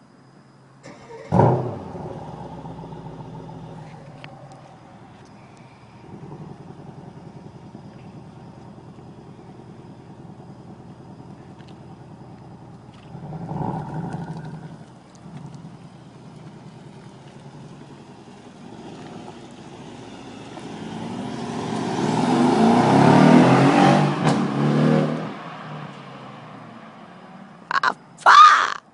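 Mercedes-Benz E63 AMG S-Model's twin-turbo V8 with a sharp blip about a second in, then idling steadily, a short rev near the middle, and a long rise to its loudest that falls away after a few seconds.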